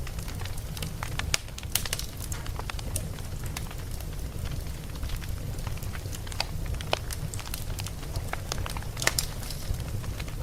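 Wood fire burning: irregular sharp crackles and pops from the logs over a steady low rumble.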